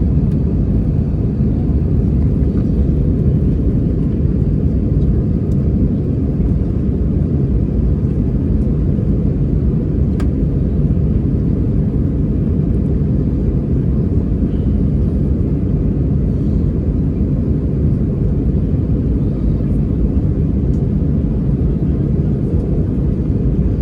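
Steady low rumble of jet engine and airflow noise heard inside the passenger cabin of an Airbus A320-214 with CFM56-5B turbofans during takeoff.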